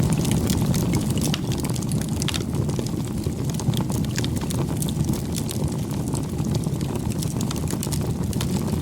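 Campfire burning: a steady low rumble of the flames with frequent sharp crackles and pops scattered throughout.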